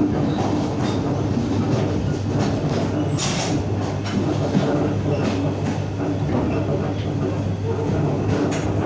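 Inside a moving suburban electric train: a steady running hum with the wheels clicking over rail joints and points. There is a brief harsh burst of noise about three seconds in.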